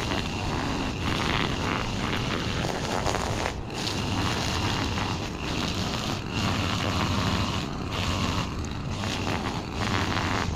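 Small engine of a handheld yard tool running steadily, with a faint high whine and several brief dips in level.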